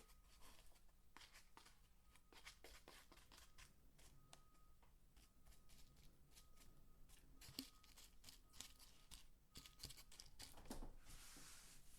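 Dry soap peelings being crumbled and crunched by hand: a faint, irregular run of crisp crackles and snaps, with a brief denser rustling hiss near the end.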